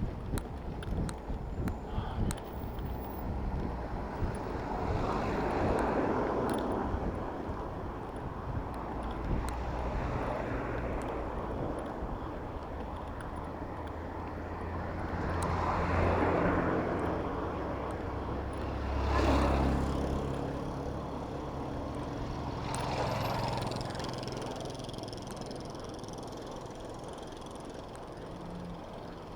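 Road traffic heard from a bicycle in city streets: motor vehicles pass close by, swelling and fading four times, the third pass the loudest and quickest, over a steady low engine hum.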